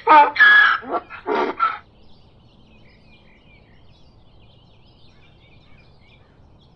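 Donkey braying in a rapid run of loud, pitched hee-haw calls that stops about two seconds in, followed by faint high chirping over low background noise.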